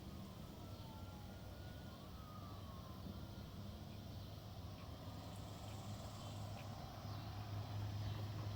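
A distant engine drones steadily, growing louder near the end, with a faint high tone sliding slowly down in the first few seconds.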